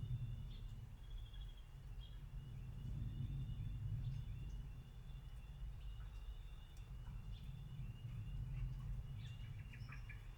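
Soft rain ambience: a steady low rumble with scattered faint ticks, under a continuous line of rapid, high-pitched chirping calls from small creatures.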